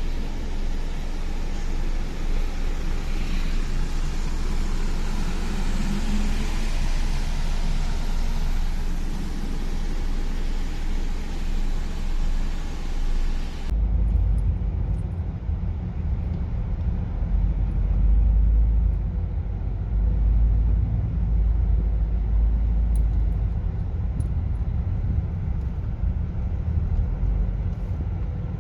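Steady low rumble of a car driving, with traffic noise. About 14 seconds in, the sound abruptly turns duller and heavier in the bass.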